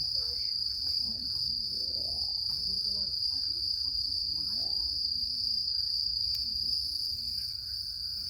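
Crickets chirring, a steady, unbroken high-pitched drone, with faint distant voices underneath.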